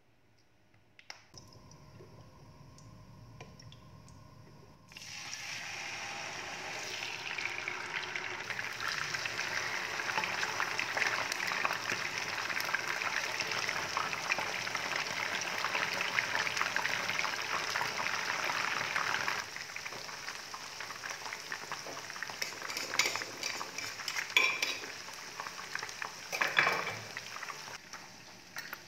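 Chicken pieces frying in shallow oil in a pan: a dense sizzling crackle that starts suddenly about five seconds in and drops to a fainter sizzle about two-thirds of the way through. Scattered sharp clinks of metal utensils follow near the end.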